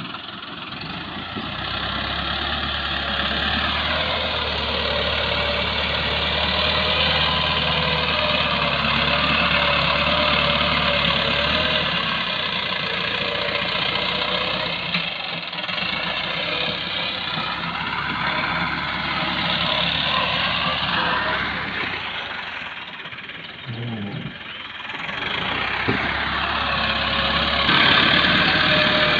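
Massey Ferguson tractor's diesel engine running under load while loading soil, its pitch rising and falling as it revs up and eases off. It drops back briefly about two-thirds of the way through, then revs up again near the end.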